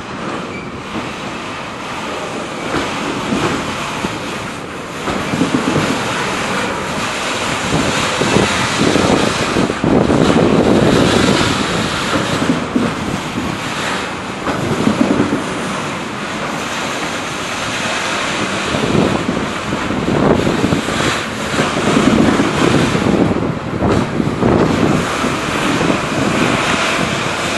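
Freight train rolling past: a continuous noisy rush of wheels on rails that swells and eases every few seconds, with wind buffeting the microphone.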